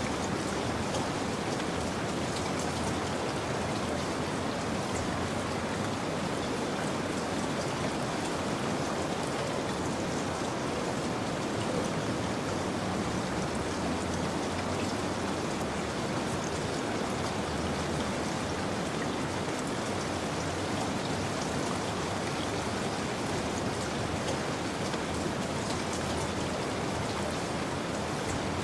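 Steady rain falling and pattering on surfaces, an even, continuous hiss with scattered drops.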